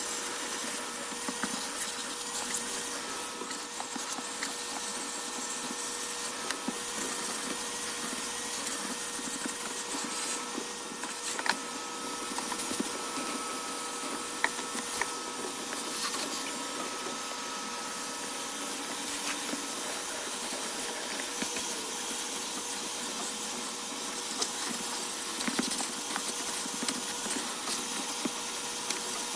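A steady machine hum with a high hiss, its whine wavering slightly, with occasional small clicks and knocks.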